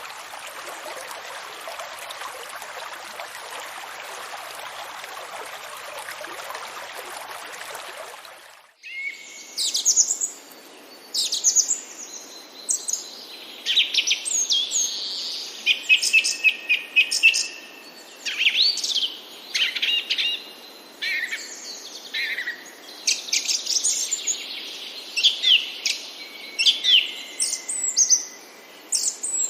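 Steady rush of running water for the first eight or nine seconds, which then cuts off abruptly. A busy chorus of songbirds follows, with many quick chirps and whistles.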